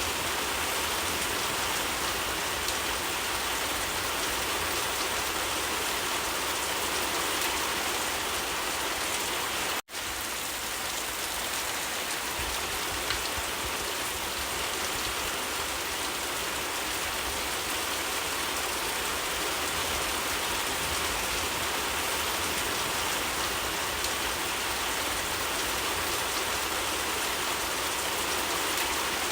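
Steady heavy rain falling, an even, dense hiss of drops, with a split-second dropout about ten seconds in.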